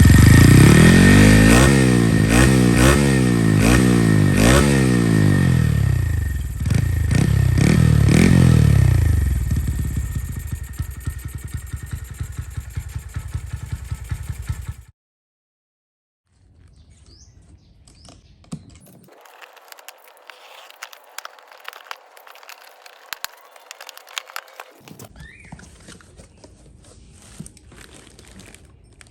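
Honda Monkey 125's single-cylinder engine through an Over Racing TT-Formula exhaust, revved in five or six quick blips and then settling to a lower run before cutting off suddenly about halfway through. After a brief silence come faint rustling and clicking handling noises.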